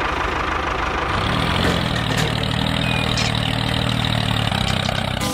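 An engine idling steadily. Its hum settles into a steady pitch about a second in.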